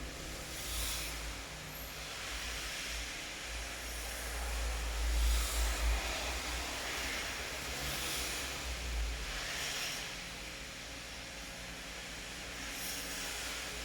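Steady rain falling, an even hiss, with a deep low rumble underneath that swells up twice, about five and nine seconds in, and short surges of heavier hiss now and then.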